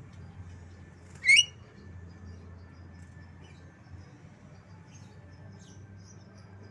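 Javan myna giving one loud, short rising whistle about a second in, part of its mimicry of white-rumped shama song. Faint scattered chirps and a steady low hum lie underneath.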